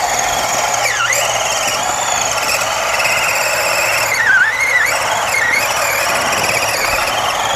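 Radio-controlled rock crawler's electric motor and gearbox whining under throttle. The pitch dips and climbs back about a second in and again around four and a half seconds in.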